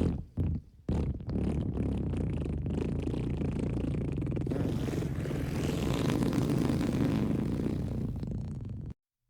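Fart sound effects: a few short blasts, then one long, rapidly fluttering fart lasting about eight seconds that cuts off abruptly.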